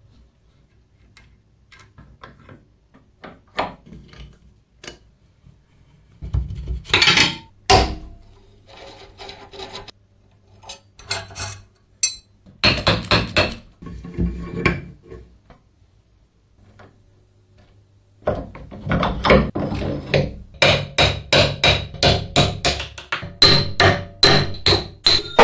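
Hand-tool work on a rusty metal tool: scattered knocks and short bursts of scraping, then a long run of hammer blows at about two or three a second near the end.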